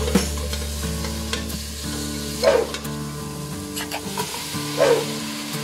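Sautéing tomatoes, onion and garlic sizzling in oil in a stainless steel pot as a metal spoon stirs and scrapes them. Seared beef short ribs drop in, with two louder sizzles about two and a half and five seconds in. Soft background music with sustained tones plays underneath.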